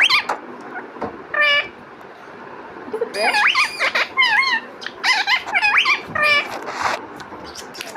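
Pet parrot calling: one short squawk, then after a pause a quick run of whistles and squawks that slide up and down in pitch.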